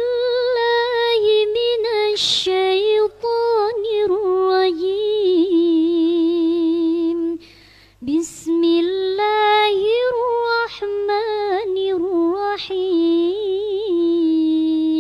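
A single high voice chanting Quranic recitation in long held notes with wavering ornaments, pausing twice to take audible breaths.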